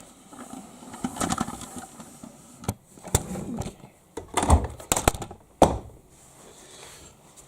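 Samsung front-loading washing machine drum turning with a lone cushion, thudding and knocking irregularly with a few sharp knocks. The cushion makes an unbalanced load as the machine works toward a 1200 spin.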